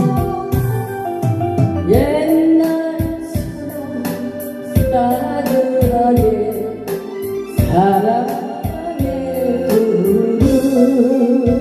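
A song with a singing voice over electronic keyboard backing with an organ-like sound and a steady beat.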